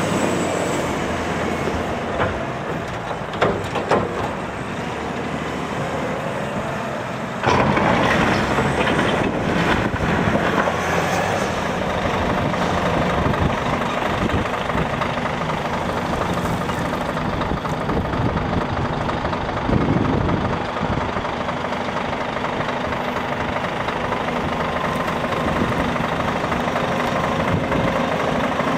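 Diesel engines of a Volvo L90D wheel loader and a Scania truck working, running steadily. Two sharp knocks come about three and a half and four seconds in, and the sound turns suddenly louder about seven and a half seconds in and stays so.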